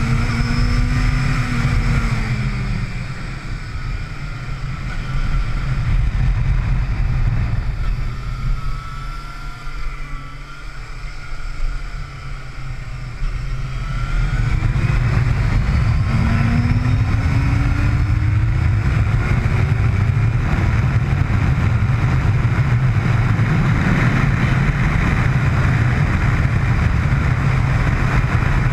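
Motorcycle engine heard onboard at speed: the engine note falls as the bike slows in the first few seconds, goes quieter through a corner, then climbs as it accelerates out about halfway through. In the last third, steady loud engine and wind rush at speed.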